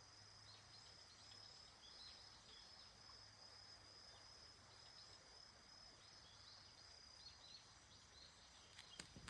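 Faint countryside ambience: a steady high insect trill with small repeated chirps over it. A couple of sharp rustles come at the very end.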